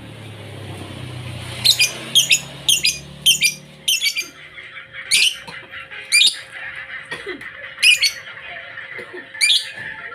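Lovebird calling: a string of short, sharp, high chirps, about two a second for a few seconds, then spaced further apart.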